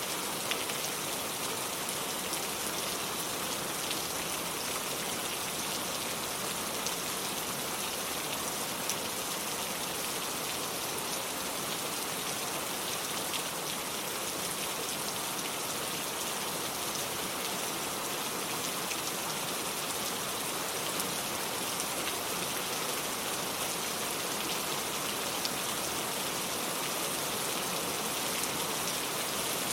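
Steady rain falling on cobblestone streets: an even hiss with scattered sharp drop ticks.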